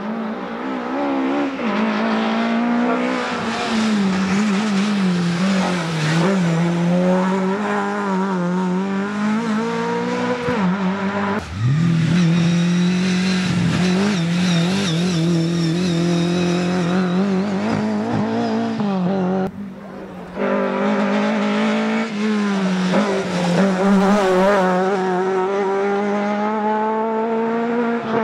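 Rally car engines running hard at high revs, the pitch wavering and climbing through acceleration, lifts and gear changes. Sudden changes of sound about 11 seconds and 20 seconds in mark switches between different cars passing.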